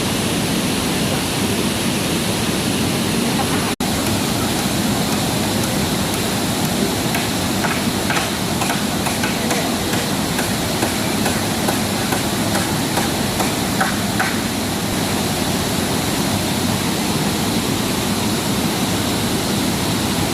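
Steady rushing of water, an even roar that cuts out for an instant about four seconds in.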